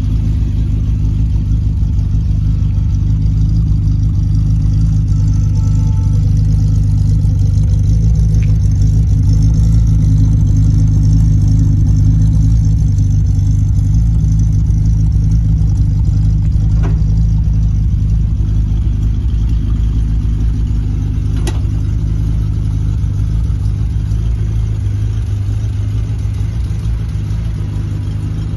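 Jaguar E-type Series 3's 5.3-litre V12 idling steadily through its four exhaust tailpipes. It grows louder toward the middle and fades toward the end.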